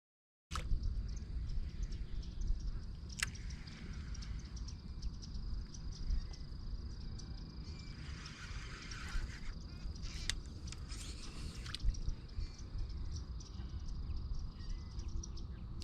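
Open-water ambience starting abruptly about half a second in: a steady low rumble of wind on the microphone, a steady high-pitched whine, three sharp clicks and faint bird calls.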